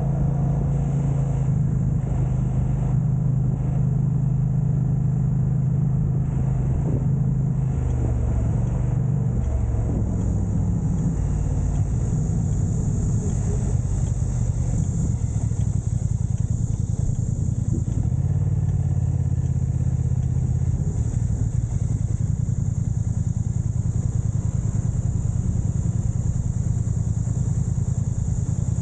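Motor vehicle running steadily: a continuous low engine drone whose pitch shifts slightly now and then.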